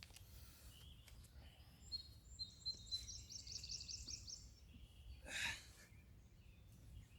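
Faint birdsong: a songbird's whistled notes, then a quick run of about eight repeated notes, over a low steady rumble. A short rush of noise comes a little past the middle.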